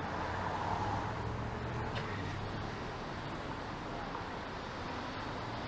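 City street traffic noise: a steady hum of passing vehicles, with a low engine rumble over the first couple of seconds that then fades.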